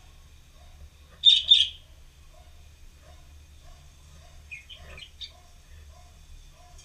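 Bird chirping: two loud, short, high chirps about a second in, then a few softer chirps just before five seconds.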